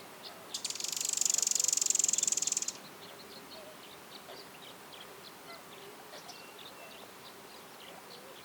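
An insect's loud, rapidly pulsed buzzing trill, starting about half a second in and cutting off after about two seconds, with short faint bird chirps scattered throughout.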